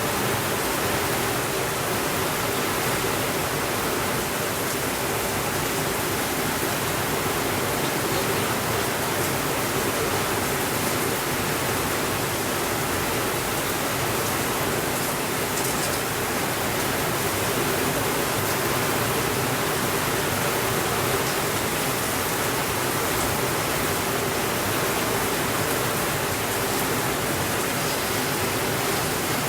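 Steady rainfall, an even hiss of water with no change in level, with a few faint ticks scattered through it.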